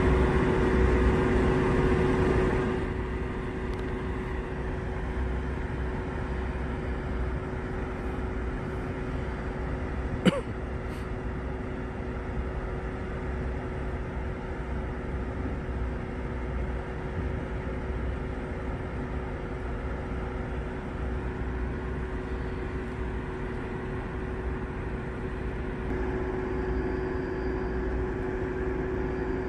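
Dodge Charger patrol car idling: a steady engine hum with a held tone, louder in the first few seconds and again near the end. One sharp click about ten seconds in.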